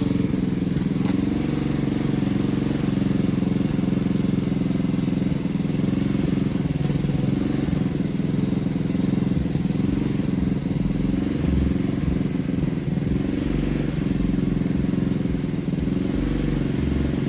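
An engine running steadily at an unchanging speed, a low even hum.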